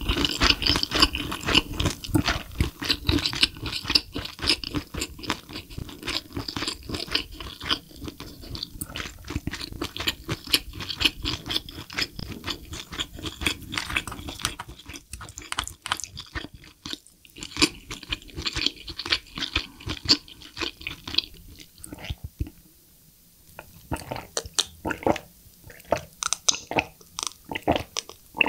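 Close-up mouth sounds of chewing spicy braised lobster tail meat: many quick clicks and smacks in a fast, irregular run, easing into a short lull a little before the end.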